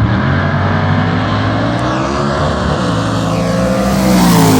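Loud race-car engines running at a drag strip, with a rushing noise building over the last second.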